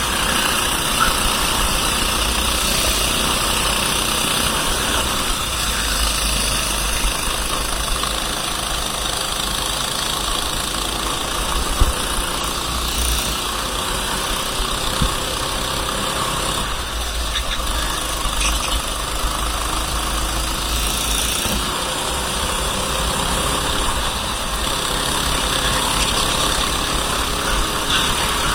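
Racing kart engine running at speed, its revs rising and falling again and again through the lap, over a steady rushing hiss.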